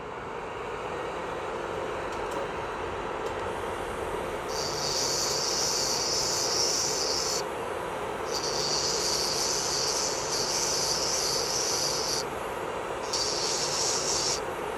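Electric nail drill (e-file) running steadily, with a high-pitched grinding whine that comes and goes in stretches of a few seconds as the bit is pressed to the nail to file off gel polish.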